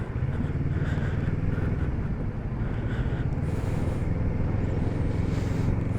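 Kawasaki Z650RS parallel-twin motorcycle engine running steadily, with a low even pulsing drone and a haze of road or wind noise over it.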